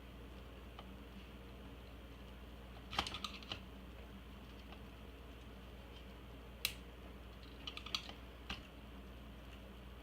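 Scattered sharp clicks and light taps of a screwdriver and plastic computer parts being handled: a short cluster about three seconds in, then single clicks and another cluster later on, over a steady low hum.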